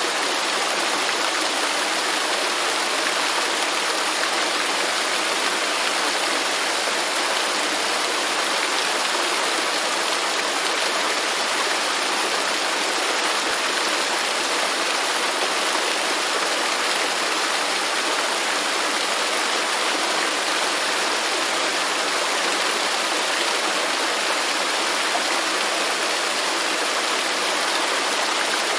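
Waterfall in a rainforest: water falling and rushing in a steady, unbroken hiss.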